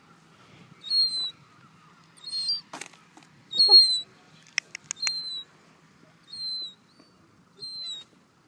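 A gull giving a series of short, high-pitched peeps that slide downward, about six of them spaced a second or so apart. A quick run of sharp clicks comes about halfway through.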